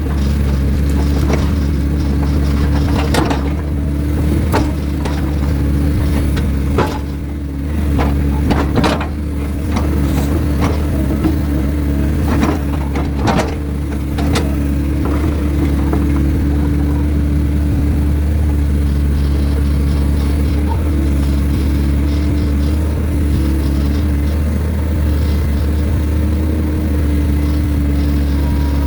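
Heavy diesel excavator engine running steadily under load, with a string of sharp knocks and clanks in the first half, typical of logs being handled and dropped.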